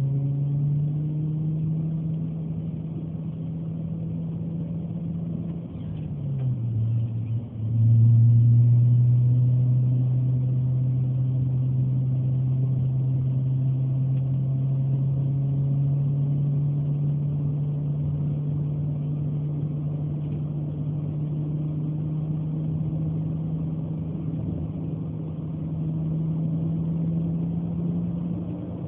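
1998 Mazda 626's 2.5 L V6 engine through an N1 universal muffler with a 4-inch outlet, giving a steady low exhaust drone. About six seconds in the pitch dips briefly; at about eight seconds it comes in louder, then slowly climbs in pitch.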